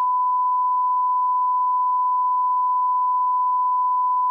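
Emergency alert attention tone: one steady single-pitch electronic beep, held unbroken.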